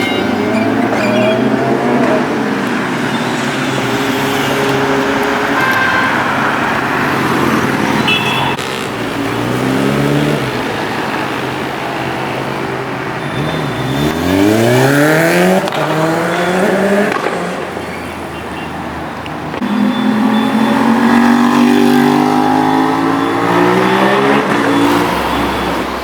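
Superbike engines accelerating hard past in a series of flybys. The engine pitch climbs steeply about ten seconds in and again about fifteen seconds in, with another loud high-revving pass about twenty seconds in.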